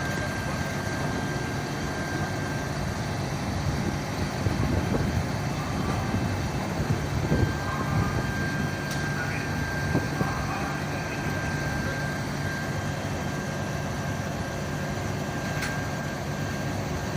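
Fire truck's engine running steadily, with a thin high whine that drops out for a few seconds and comes back. There are a few knocks and bumps between about four and eight seconds in, and a sharp click near the end.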